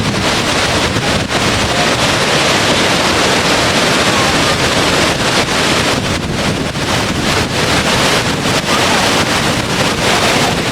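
Loud, steady rushing of falling water, an unbroken noise with no rhythm or pitch.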